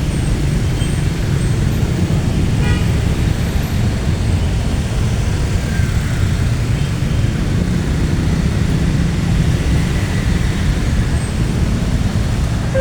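Long train passing close by with a steady, heavy rumble. A brief faint tone sounds about two and a half seconds in.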